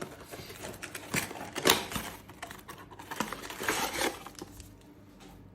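Crinkling and rustling of trading cards and their plastic booster-pack wrapping being handled, in several short bursts. The loudest burst comes nearly two seconds in, and there is a longer one about three and a half seconds in.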